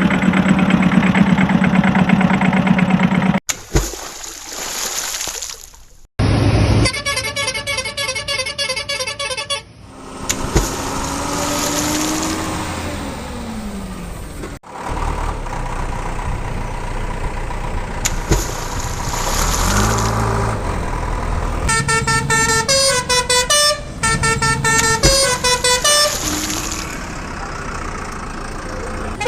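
A string of loud vehicle sound effects changing every few seconds: horn honks alongside beeping electronic melodies and a falling pitch glide.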